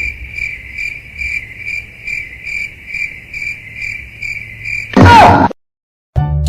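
Cricket chirping, a high, even pulse of about two to three chirps a second. About five seconds in, a brief, very loud sound with a falling pitch cuts in, then stops suddenly.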